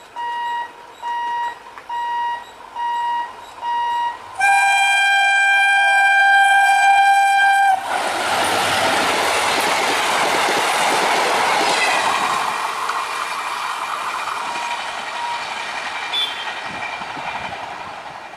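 A high tone pulsing in short beeps for the first four seconds, then a long steady blast of an EMD diesel locomotive's horn lasting about three seconds. The locomotive and its passenger coaches then pass at high speed with loud rolling and clattering wheels, fading away near the end.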